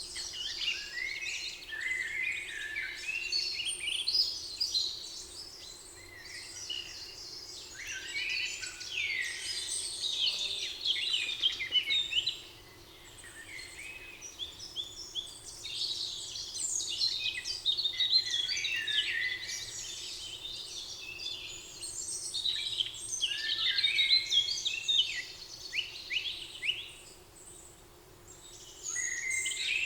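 A chorus of several songbirds singing and chirping together in quick, overlapping phrases, dropping away briefly twice.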